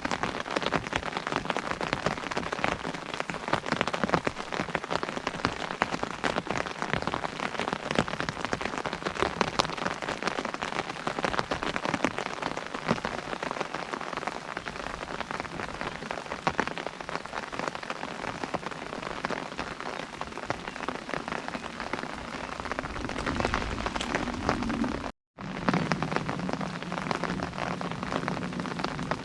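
Steady rain drumming on an umbrella: a dense pattering of many close drops. About 25 seconds in the sound cuts out for a moment, and when it returns a low hum runs under the rain.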